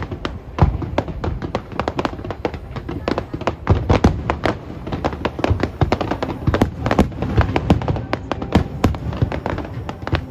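Fireworks bursting in rapid succession, several sharp bangs and cracks a second over a continuous low rumble.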